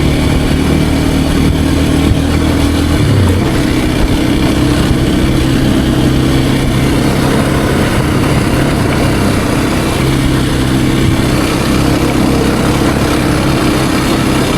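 Kawasaki KLX230R's single-cylinder four-stroke engine running steadily while the bike is ridden, its tone changing briefly about three seconds in.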